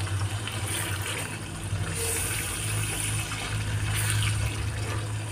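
Beef mince sizzling steadily in its separated oil as it is stirred with a wooden spatula, the sign that the keema's frying (bhunai) is complete. A steady low hum runs underneath.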